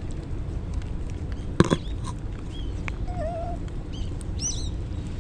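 Several short chirping animal calls, including a quick run of high chirps about four and a half seconds in, over a steady low rumble. A single sharp knock about a second and a half in is the loudest sound.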